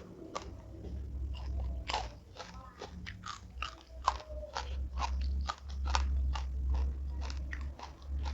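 Close-up chewing and crunching of crisp food, an irregular run of sharp crunches and mouth clicks.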